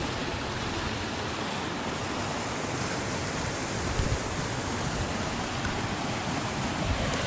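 Steady rush of water pouring down a partly frozen waterfall, an even hiss with no breaks, and a brief low bump about four seconds in.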